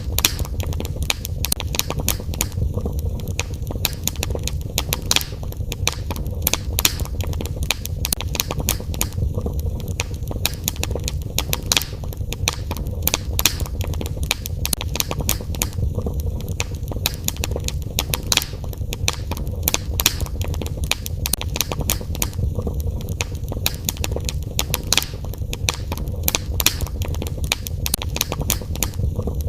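Wood fire in a fireplace crackling, with many sharp pops and snaps over a steady low rumble of the flames.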